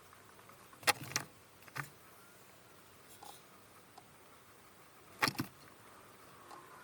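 Low room tone broken by a few sharp clicks or knocks: two close together about a second in, one just after, and another close pair about five seconds in.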